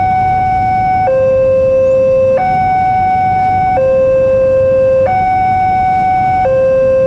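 Railway level crossing's electronic warning alarm sounding a steady hi-lo two-tone pattern. A higher and a lower tone alternate, each held for about a second and a quarter.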